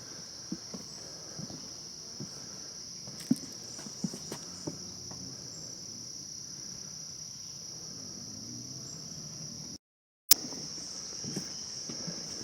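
A steady high-pitched chorus of insects trilling in the woods, with scattered soft thumps of footsteps on a wooden boardwalk. The sound cuts out completely for about half a second near the end.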